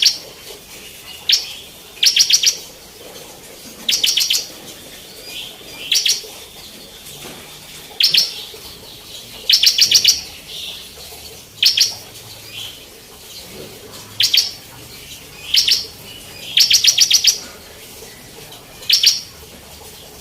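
Bar-winged prinia (ciblek) singing actively. About a dozen short bursts of rapid, high, repeated notes come one to two seconds apart.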